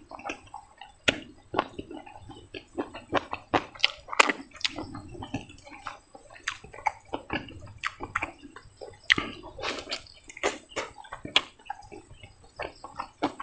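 A person eating rice and chicken curry: wet, irregular chewing and lip-smacking sounds, a few a second.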